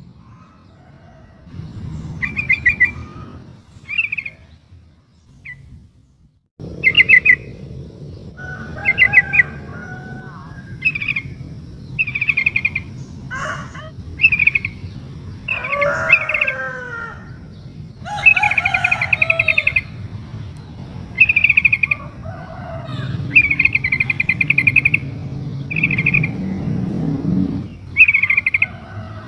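Yellow-vented bulbul (trucukan) calling in short, fast chattering phrases repeated every second or two, mixed with other bird calls that slide up and down in pitch; presented as a female calling to draw a male to answer. A low rumble runs underneath.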